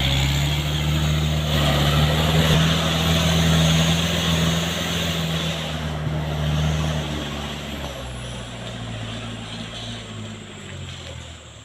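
Oil-palm fruit truck's diesel engine running hard with a steady low drone, easing off and fading after about seven seconds.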